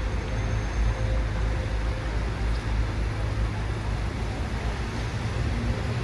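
Rainy city street: a steady low traffic rumble under an even hiss of rain, heard through a smartphone microphone.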